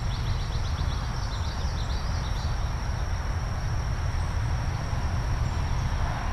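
Outdoor nature ambience: a steady low rumble under a thin, constant high-pitched insect drone, with a run of quick falling bird chirps in the first couple of seconds.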